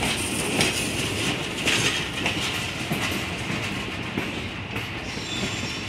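Train wheels rumbling and clacking over rail joints, heard from an open coach vestibule while a string of covered hopper cars passes close on the adjacent track. A faint high squeal comes in near the end.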